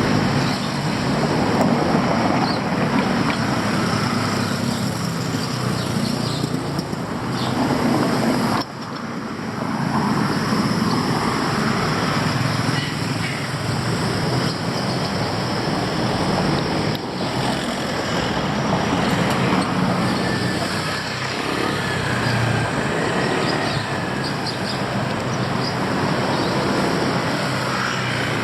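Steady street traffic noise: cars and motorbikes running and passing, with a brief lull about nine seconds in.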